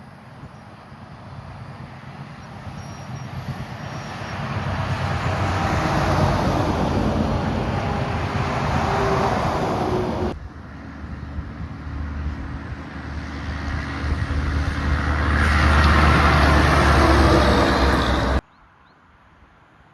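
Trucks passing close by on a road: one swells up and goes past, then the sound cuts abruptly, and a second, louder one with a deep engine rumble passes before the sound cuts off suddenly near the end.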